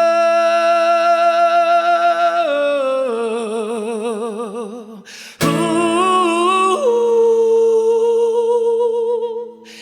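A male singer holding long drawn-out notes on a wordless vocal run, sliding down through a stretch of wide vibrato. There is a brief break about five seconds in, then he settles onto another long steady note.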